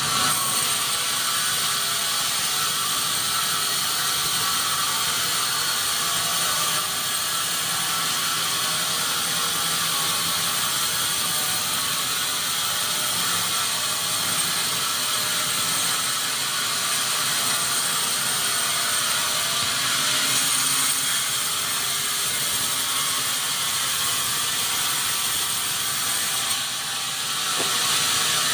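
Sawmill machinery running steadily, giving a dense, even high-pitched noise that stays level throughout.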